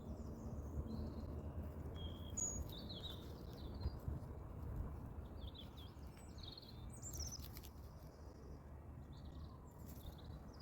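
Several small birds chirping and singing, short varied calls scattered throughout, over a steady low outdoor rumble.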